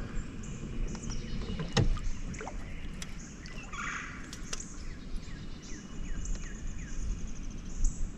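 Songbirds chirping and calling in short, repeated notes over a steady low rumble, with a sharp knock about two seconds in.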